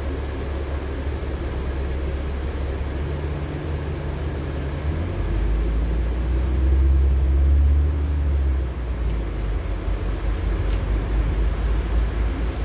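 LiAZ-6213.65 articulated city bus heard from inside while driving: a steady low engine and road rumble that grows louder for a few seconds in the middle, then eases back.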